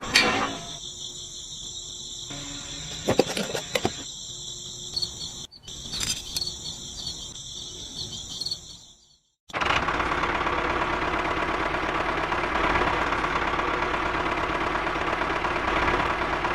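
Insects chirping in a steady high trill, broken by a few clicks. About halfway through, a cut brings in a louder small motor running steadily.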